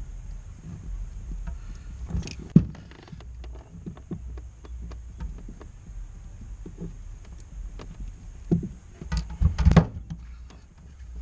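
Small clicks and rustles of wiring and hand tools being handled, with a few sharp knocks about two and a half seconds in and again near the end, as T-tap connectors are crimped onto car wiring; a low rumble runs underneath.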